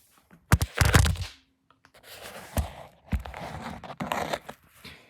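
Handling noise: a loud thump and clatter about half a second in, then scraping and rustling with a couple of sharp knocks.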